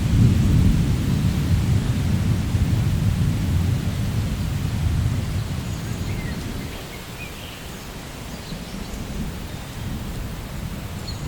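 Steady rain with a long roll of thunder, loudest at the start and dying away about two-thirds of the way through.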